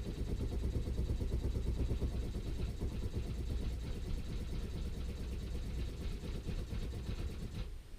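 Brand-new boat freshwater pump running with a fast pulsing rattle, then cutting out suddenly near the end. It keeps running when it should switch off at once, and the owner takes it to need adjusting.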